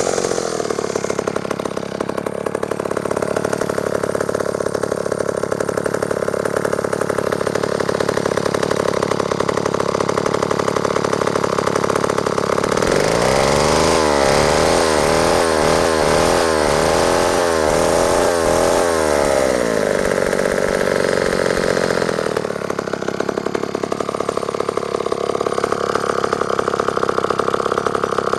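Old McCulloch 1-50 two-stroke chainsaw engine running steadily, then for several seconds in the middle its speed surges up and down about once a second before it settles again. The uneven running is the sign of a carburettor that needs a rebuild kit: it runs alright at the top end but won't hold a steady idle.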